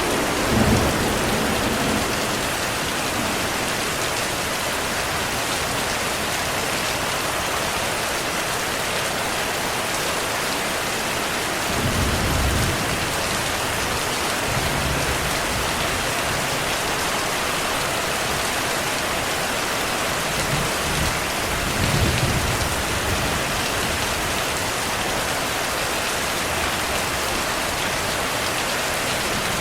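Steady rain pattering on surfaces, with low rumbles of distant thunder: one near the start, one about twelve seconds in, and a longer one around twenty-one to twenty-two seconds.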